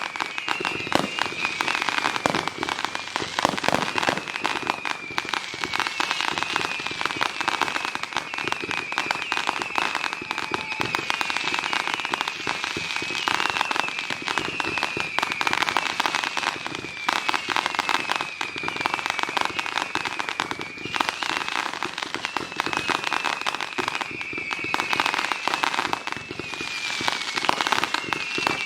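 Dense fireworks display: continuous crackling and popping from many shells at once. A high tone that falls slightly in pitch repeats about every two seconds over it.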